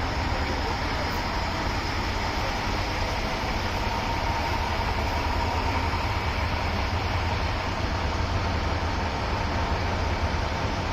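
Steady low rumble of a diesel train, the Sennen Monogatari's KiHa 185-series railcars, with a faint steady whine above it.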